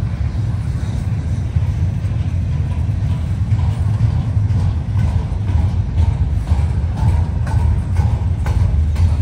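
Freight train rolling past with a steady low rumble. From about three and a half seconds in, a run of irregular clicks and clatters from the wheels and cars joins it.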